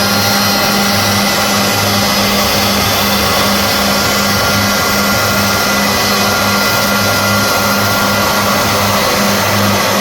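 CNC machine running: a loud, steady motor noise with a low, slightly pulsing hum and faint steady whines above it.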